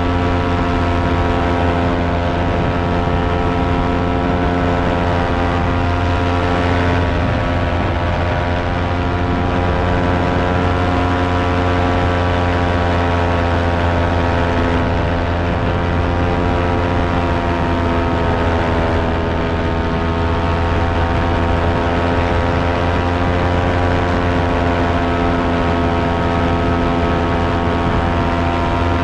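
A fan running steadily with a constant motor-and-blade hum. Its pitch sags slightly for a moment about two-thirds of the way through, then returns.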